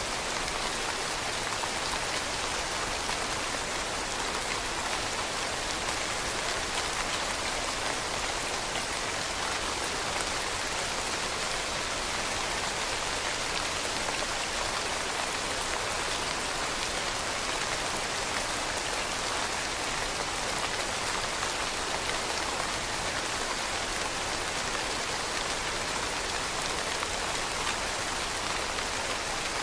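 Steady rain falling on leaves: a continuous hiss of many small drop patters with no letup.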